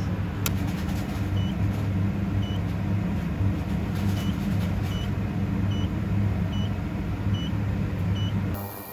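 A machine running with a steady low hum, with short high beeps repeating about once a second. The hum cuts off abruptly near the end.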